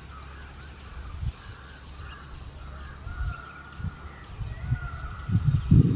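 Birds calling outdoors: drawn-out, honk-like calls with short high chirps above them. Irregular low rumbling bursts build up toward the end and are the loudest sound there.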